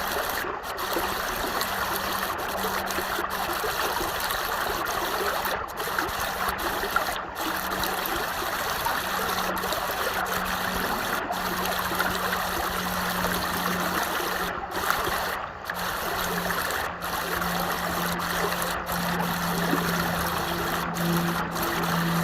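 Stream water running and trickling steadily. A low steady tone grows louder beneath it, and a second, higher tone joins near the end.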